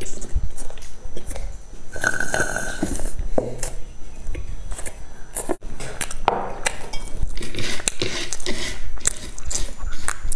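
Close-miked chewing and mouth noises of someone eating a crumbly dry snack, with irregular clicks throughout and bits of a small child's voice in the background.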